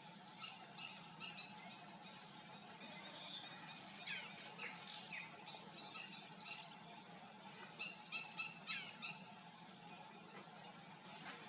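Birds chirping and calling: many short, high chirps and a few quick falling whistles, scattered irregularly over a steady low background hum.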